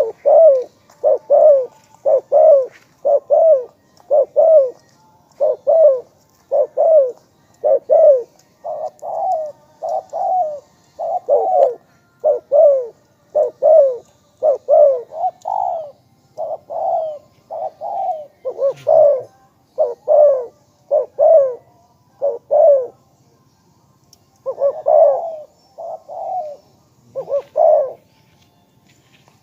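Spotted dove cooing: a long run of short, repeated coos, about one to two a second, broken by brief pauses near the end.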